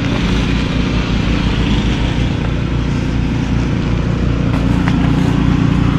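Several snow blowers running at once: a steady engine drone.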